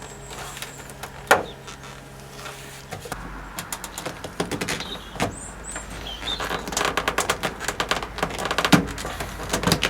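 Plastic trim clips and the van's door card clicking and rattling as the card is prised away from the metal door. A single sharp knock about a second in, then a run of quick clicks and creaks from about three seconds in.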